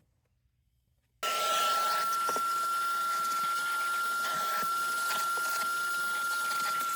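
A vacuum motor starts suddenly about a second in and runs steadily with a high whine over its rushing air.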